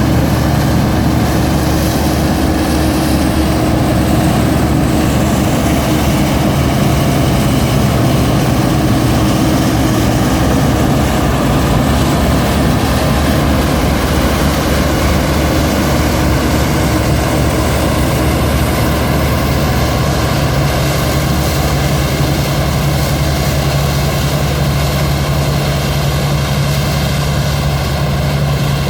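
New Holland TX34 combine harvester running steadily while harvesting wheat: a loud, even drone of its diesel engine and threshing machinery that hardly changes throughout.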